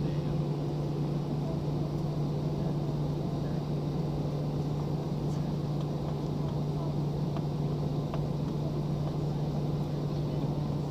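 Airliner cabin noise in flight: a steady drone of jet engines and rushing air, with an even low hum running through it.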